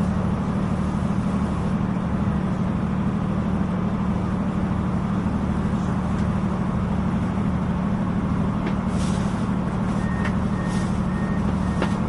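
Inside a Translink NI diesel passenger train running between stations: a steady low rumble of engine and wheels on the rails. A few faint clicks and a short, broken high tone come in near the end.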